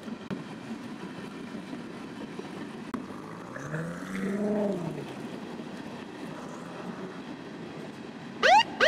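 BMW car engine pulling away, its pitch rising and then falling about four seconds in. Near the end a police siren starts whooping in rising sweeps.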